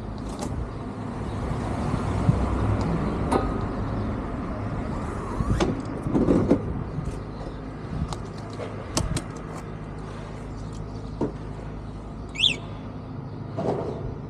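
Road traffic going by: a steady rumble that swells in the first few seconds, with scattered clicks and knocks and a brief high squeak near the end.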